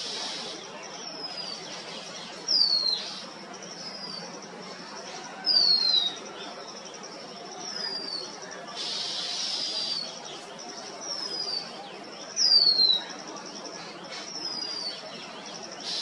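A bird repeating a high whistle that slides down in pitch, about every one and a half seconds. Three of the calls are much louder than the others, and fainter, higher calls sound behind them.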